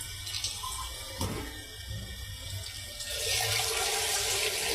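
Water starts running about three seconds in, a steady rushing that keeps on; before it there is only a low hum and a single click about a second in.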